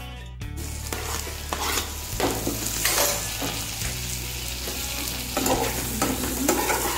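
Chopped tomatoes being stirred into onion-and-spice masala frying in a nonstick kadhai: a steady sizzle, with repeated scraping strokes of the spatula against the pan.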